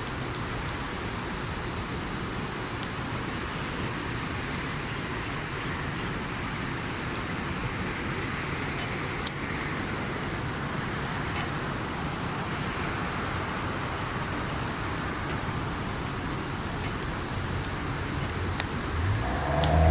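Wood campfire burning with a steady hiss and a few sharp crackles and pops. Near the end a low engine hum comes in and grows louder.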